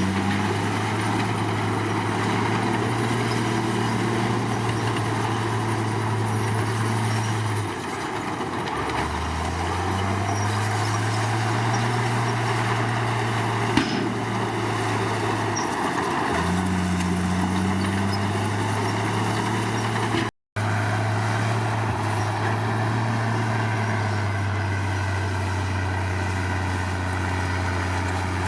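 Komatsu D53 bulldozer's diesel engine running under load. Its pitch dips and climbs back twice, about 8 and 16 seconds in, as the load changes. There is a single clank near the middle, and the sound cuts out for a split second a little later.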